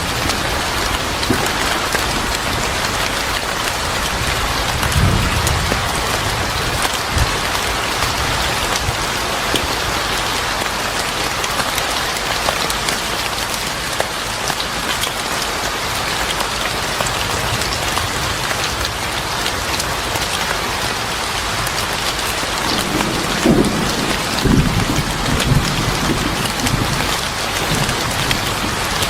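Steady rain falling on a porch, an even hiss with fine drips, with deep low rumbles a few seconds in and again near the end.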